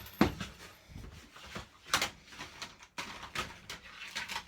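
Irregular clicks and knocks, sharpest just after the start and again about two seconds in, with softer clacks in between.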